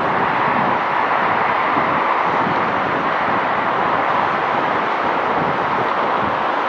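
Steady jet noise from an airliner's engines, an even loud roar that holds without rising or falling.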